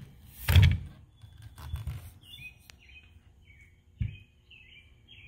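A small bird chirping a quick series of short notes through the second half. Before that comes a brief loud rustling noise about half a second in, and a dull thump at about four seconds.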